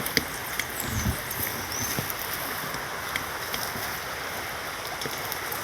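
Steady rush of running water from a nearby stream or waterfall, with scattered light clicks and a short high chirp about two seconds in.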